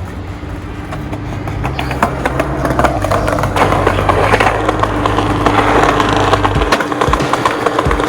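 Skateboard wheels rolling on pavement, growing louder, with scattered sharp clacks of the wooden deck.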